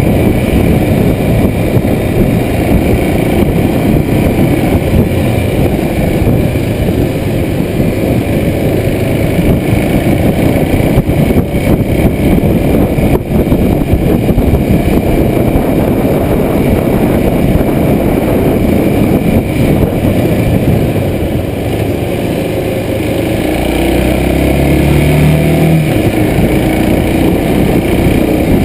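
Kawasaki Super Sherpa's 250 cc single-cylinder engine running as the motorcycle is ridden, heard from a chest-mounted camera under a dense rush of wind noise. Near the end a steady engine drone stands out more clearly for a couple of seconds.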